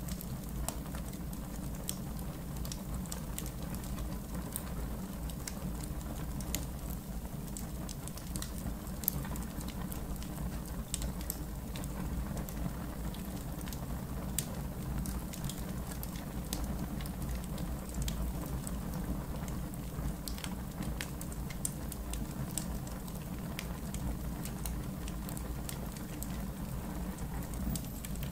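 Campfire in a fire pit crackling: a steady low rumble with frequent irregular sharp pops and snaps, one louder pop about nine seconds in.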